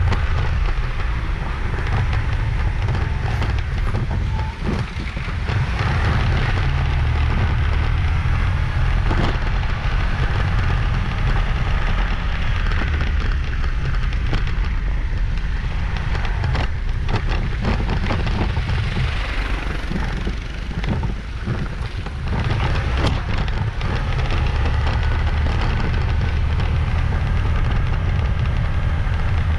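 Riding noise from a motorbike on the road: wind buffeting the microphone in a heavy low rumble over engine and tyre noise, with scattered crackles and clicks.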